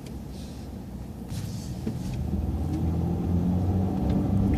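City bus engine rumbling as the bus accelerates, heard from inside the bus. From a little over a second in it grows steadily louder and its pitch climbs slightly.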